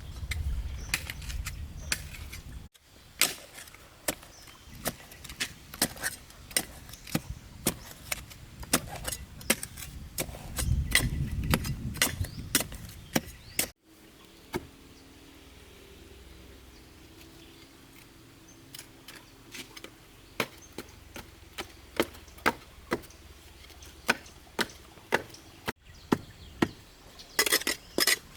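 Repeated sharp strikes of a hand tool chopping, several a second at times, with brief gaps where the sound drops out suddenly.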